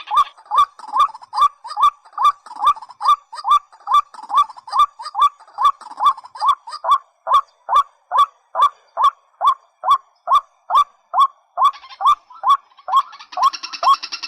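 White-breasted waterhen calling: a loud, steady series of short, identical 'kwak' notes, about two and a half a second. Near the end a second, busier run of calls joins in over it.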